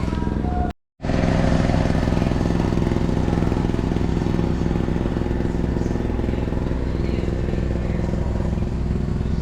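An engine running steadily at a constant speed, broken by a brief dropout to silence about a second in.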